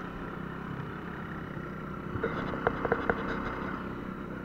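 Small motorcycle engine running under throttle as the rider tries a burnout, spinning the rear tyre, with a few sharp clicks a little past the middle.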